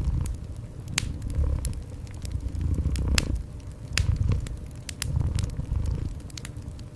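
Wood fire crackling with sharp, irregular pops, over a cat purring in low swells that rise and fall about every second and a half.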